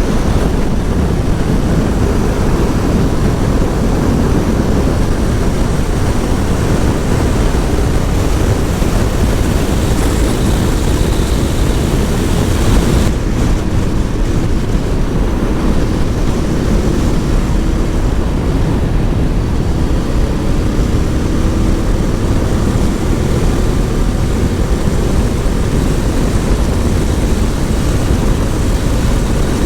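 Heavy wind rush over the microphone of a motorcycle riding at highway speed, with the engine's drone faintly underneath and edging up in pitch midway.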